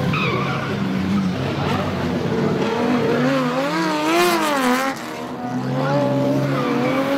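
1965 Porsche 911 2.0 SWB's air-cooled flat-six engine through its exhaust, loud. The revs swing up and down quickly several times in the middle, dip briefly about five seconds in, then settle back to a steadier pitch.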